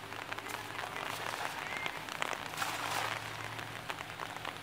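Rain pattering on the water and plants, a dense steady patter of small drops. About two and a half seconds in, a cast net splashes down onto the water.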